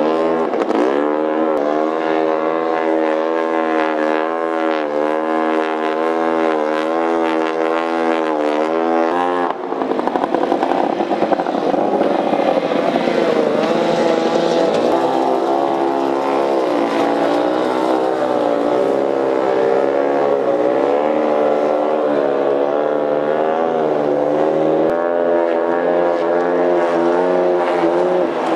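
Antique outboard motor running on the water, its pitch wavering up and down with the throttle. The engine sound changes abruptly about ten seconds in.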